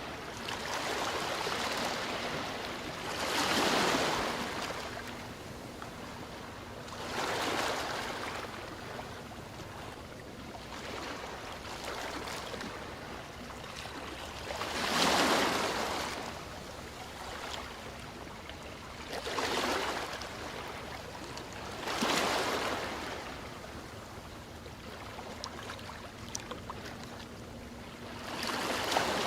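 Ocean waves breaking and washing on a shore, a steady hiss of surf that swells about six times at uneven intervals, each wave rising and falling over a second or two.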